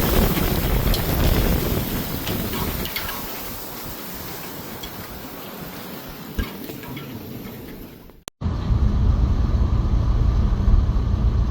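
Storm wind blowing across the microphone, fading over several seconds. After a brief cut about eight seconds in, a louder, steady low rumble follows.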